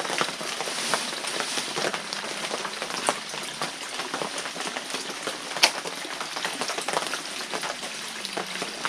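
Dense, irregular patter of water drops with small splashes, with one sharper tap about five and a half seconds in.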